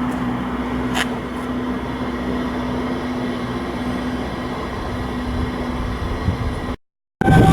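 Steady machinery hum with a low drone and a single sharp click about a second in; it cuts off abruptly near the end, and a louder, different sound starts right after.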